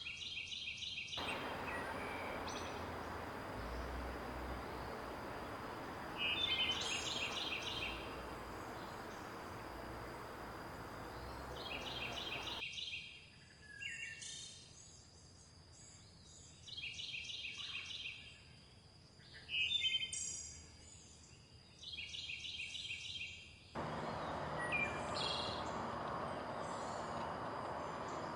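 Forest birds singing: one bird repeats a short, rapid trilled call every five seconds or so, with other chirps in between. The rush of a river comes in and cuts off suddenly twice, and a faint steady high whine runs underneath.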